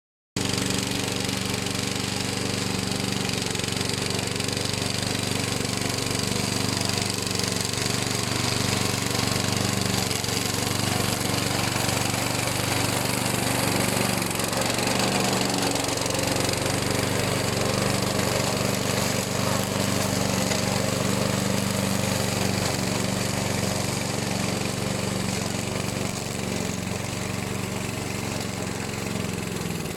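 Engine of a remote-controlled lawn mower running steadily under load.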